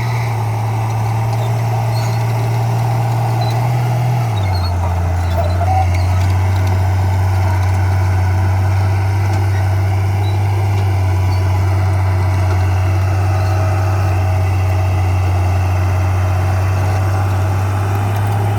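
Diesel engine of heavy earthmoving machinery running steadily with a deep drone that drops slightly in pitch about four seconds in.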